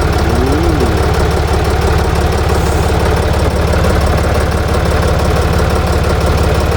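Ditch Witch trencher's three-cylinder air-cooled Deutz diesel idling steadily, its firing pulses even and unchanging; it is at low idle, with no throttle control yet found.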